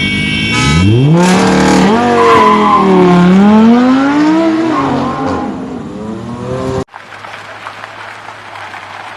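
Sports car engine revving hard. Its pitch climbs steeply about a second in, then rises and falls a few times, and the sound cuts off abruptly near seven seconds. Quieter traffic noise with a low steady hum follows.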